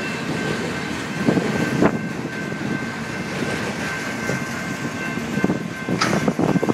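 Freight train of autorack cars and boxcars rolling past: a steady rumble of steel wheels on rail, with occasional clacks over rail joints and a sharp clank about six seconds in, the clacking coming quicker near the end.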